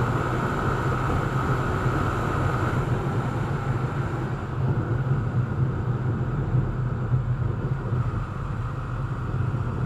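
Yezdi Scrambler's single-cylinder engine running steadily at speed under a rush of wind, with a higher whine that stops a little under three seconds in and a hiss that fades about halfway through.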